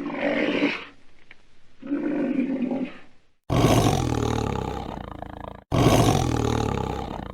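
An animal calling: two shorter calls, then two loud roars that each start suddenly and fade away over about two seconds.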